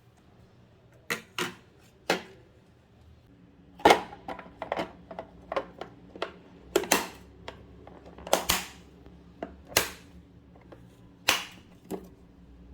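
A string of sharp, irregular clicks and knocks, about fifteen of them, in a small room: sparse at first, then busier from about four seconds in.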